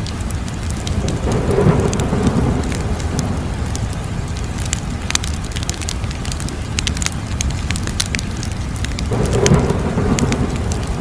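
Wood fire crackling, with frequent sharp pops over a steady low rumble. It swells into a louder rush twice: about a second in, and again near the end.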